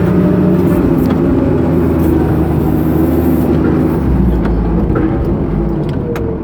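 Timberjack 450 skidder's diesel engine running as the machine is driven, heard from inside the cab, with a few sharp clanks and rattles. The low rumble swells for a moment about two-thirds of the way in.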